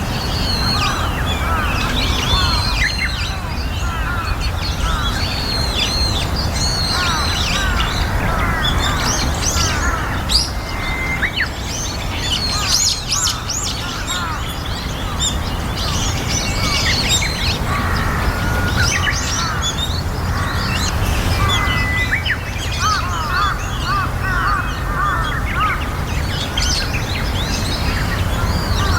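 Many birds chirping and calling over one another in a dense, continuous chatter of short, sweeping notes, with a steady low rumble underneath.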